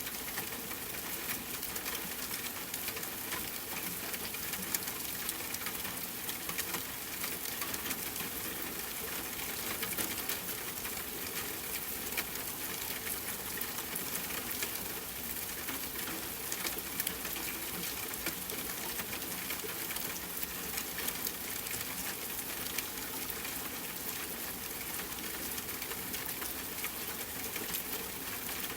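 Steady rain mixed with a crackling campfire: a constant even hiss dotted with many small, sharp pops throughout.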